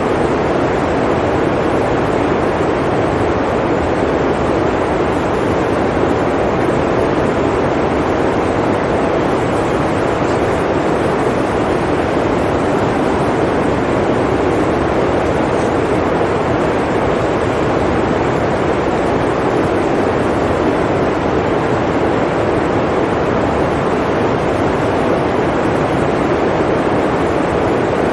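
Blizzard wind blowing steadily: an even, unbroken rush with no gusts or breaks.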